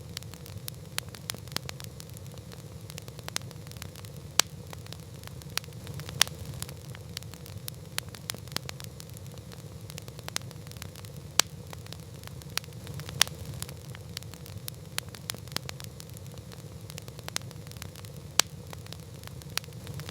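Wood campfire crackling: many irregular small pops and snaps from the burning logs, a handful of them sharper and louder, over a steady low rumble.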